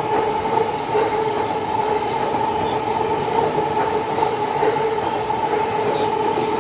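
JR East E233 series electric commuter train rolling slowly into the platform as it comes in to stop, with wheel-on-rail noise and a steady two-tone whine from its running gear.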